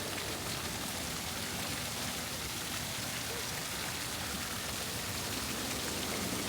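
Steady hiss of falling or running water, even throughout, with faint scattered ticks.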